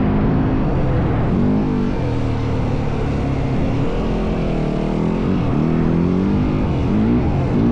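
Yamaha WR450F single-cylinder four-stroke dirt bike engine under way, its pitch rising and falling repeatedly as the throttle is worked. A steady rushing noise runs underneath.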